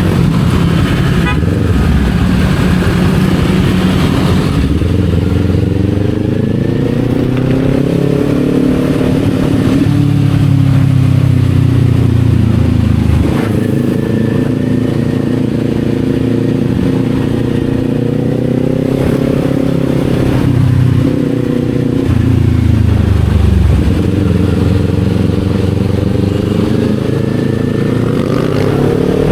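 Kawasaki Z400's parallel-twin engine running under way, its revs climbing and falling several times, with sudden drops in pitch about halfway through and again a few seconds later, over steady wind and road noise.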